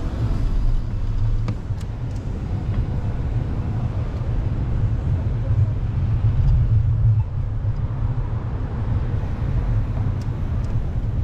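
Low, steady rumble of wind buffeting the microphone while riding a bicycle, mixed with city traffic noise, with a few faint ticks.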